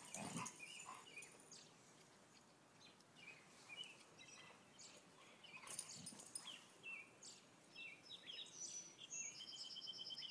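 Faint birdsong: wild birds chirping in short notes throughout, with a steady trill near the end.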